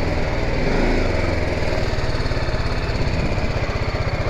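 BMW G 310 GS motorcycle's single-cylinder engine running at low revs, a steady rapid chugging pulse.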